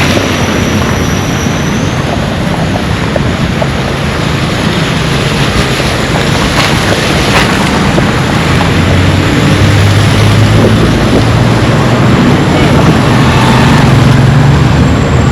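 Steady, loud hiss of heavy rain, with a motor vehicle's engine hum growing louder about halfway through.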